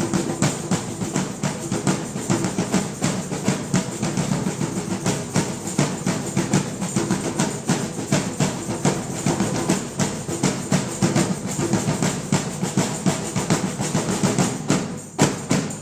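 Drum ensemble playing a fast, driving rhythm of dense hits, ending with a final few strokes near the end.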